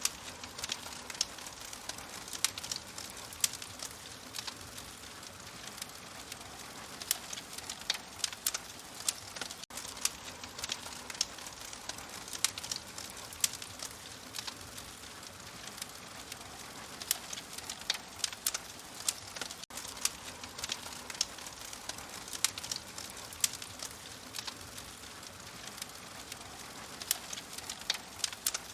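Wood fire crackling: a steady soft hiss with frequent, irregular sharp pops and snaps.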